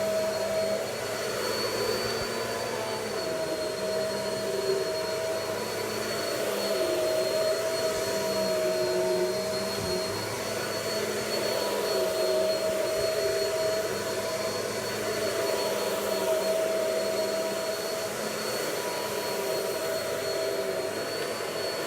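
Vacuum cleaner running steadily while vacuuming cornstarch out of carpet, a steady motor hum with a high whine on top that shifts slightly in pitch as the vacuum is pushed back and forth.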